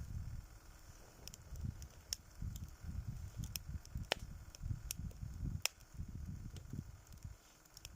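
Wood campfire crackling: scattered sharp pops, the loudest about four and five and a half seconds in, over a low, uneven rumble.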